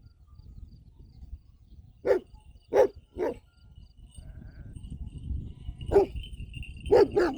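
A dog barking: three short barks about two seconds in, then more barks near the end.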